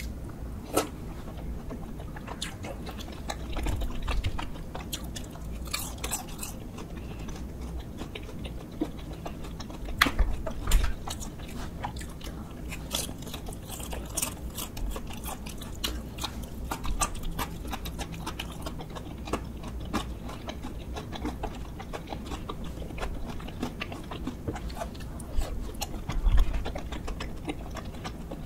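Close-miked chewing and eating sounds of someone eating chewy tteokbokki rice cakes, with many scattered sharp clicks and small crunches.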